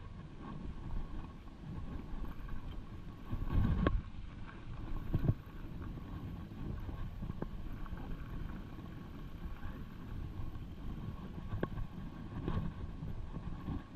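Mountain bike riding over rough rock: a steady low rumble with wind on the microphone, broken by several sharp knocks and rattles, the loudest about four and five seconds in.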